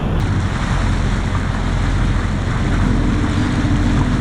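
A 32-foot wooden cruising cutter's engine running steadily under way, a constant low hum, with water rushing past the hull and wind on the microphone.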